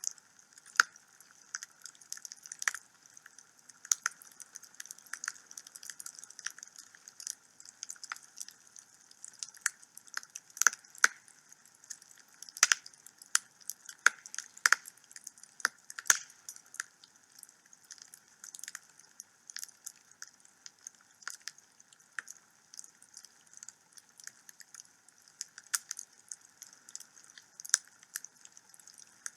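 Wood fire burning in a home fireplace, crackling and popping: many sharp snaps at irregular intervals, denser in the middle, with a few louder pops.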